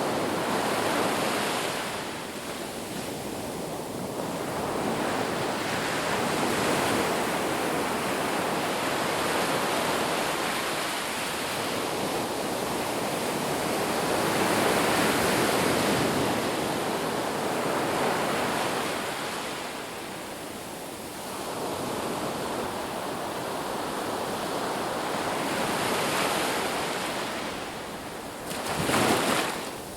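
Sea waves breaking and washing on a shore, a continuous rushing that swells and ebbs every few seconds, with a stronger surge near the end.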